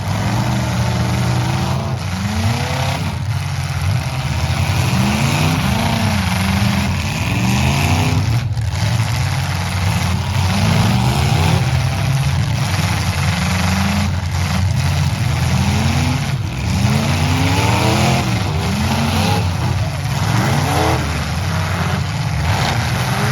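Several demolition derby trucks' engines revving hard over and over, their pitch rising and falling as the trucks charge and back up in the arena.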